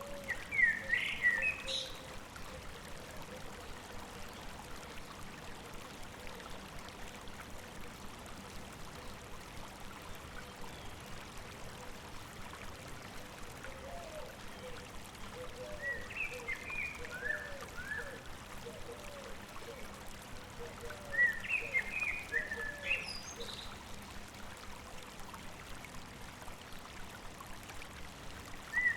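Stream babbling steadily, with songbirds singing short chirping phrases near the start, in the middle and about three quarters through, and a run of softer, lower notes in between.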